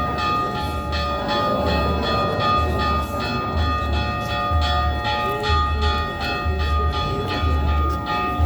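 Bells ringing repeatedly, their tones hanging on between strokes, over a low pulse that comes about once a second.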